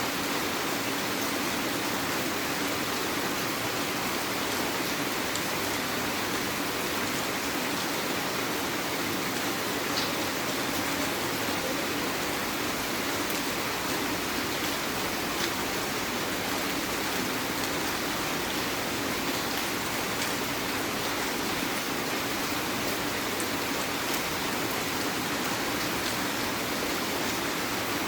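Heavy rain falling steadily, an even hiss with a faint patter of drops.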